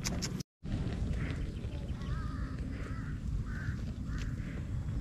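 Birds calling: a string of short calls, one with a wavering pitch, over steady low outdoor background noise, with a brief dropout about half a second in.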